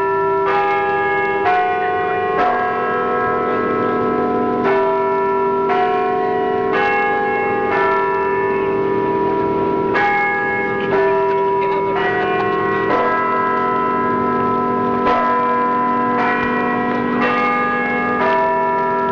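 Church bells ringing a peal: several bells of different pitch struck in turn, about one stroke a second, each note ringing on under the next.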